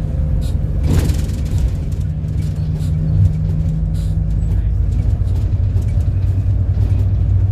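City bus engine running with road noise, heard from on board as the bus drives. There is a sharp clatter about a second in, and the engine note drops to a lower pitch about two-thirds of the way through.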